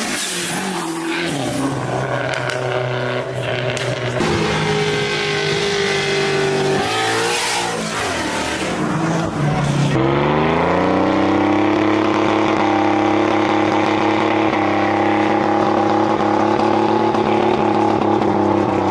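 A car engine revving up and down, then climbing about ten seconds in and held at steady high revs to the end, loud.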